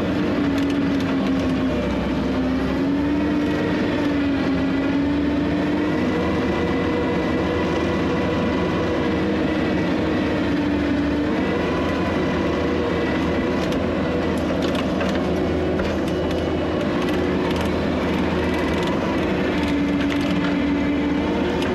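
Skid steer's diesel engine running steadily while grading dirt, its pitch wavering slightly as the load changes.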